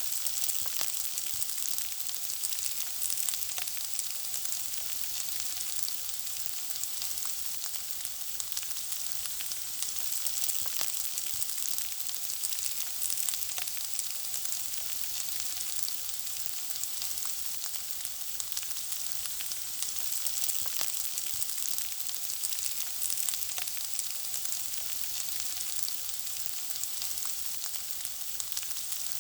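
Food frying in hot oil: a steady sizzling hiss with a constant scatter of small crackles and pops.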